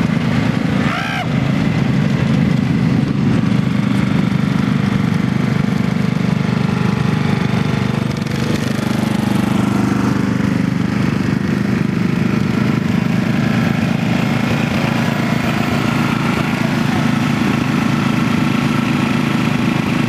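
Riding lawn mower engines running steadily with a rattling drone, with a brief rise and fall in pitch about a second in.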